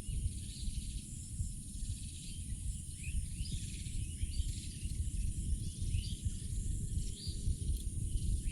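Outdoor rural ambience: a steady, high-pitched drone of insects with faint, scattered bird chirps over a loud, low rumbling noise.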